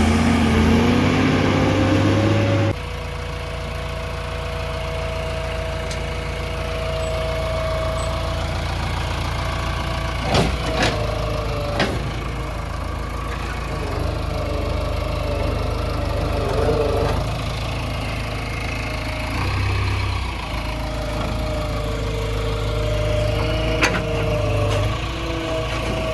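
JCB 3DX backhoe loader's diesel engine working, its pitch rising for the first couple of seconds, then settling into a steadier drone with a held hydraulic-like whine. A few sharp knocks sound through it, twice about ten and twelve seconds in and once near the end.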